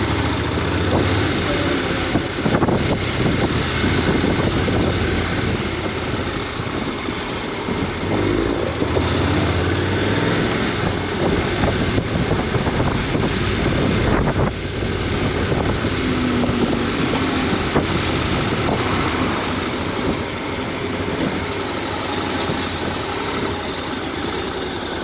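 Honda NC750X's parallel-twin engine running under way, mixed with wind and road noise on the microphone.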